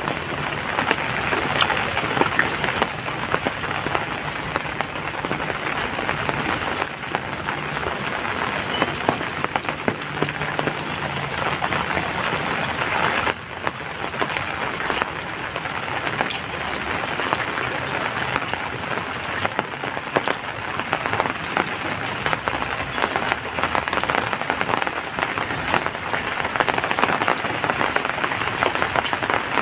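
Heavy rain falling steadily, a dense patter of countless drops striking surfaces, with a brief dip in loudness about halfway through.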